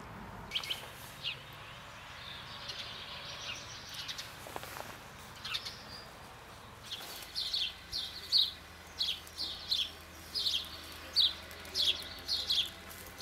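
Small birds chirping outdoors: a couple of short chirps near the start, then from about seven seconds in a quick series of short down-slurred chirps, two or three a second, over a faint low hum.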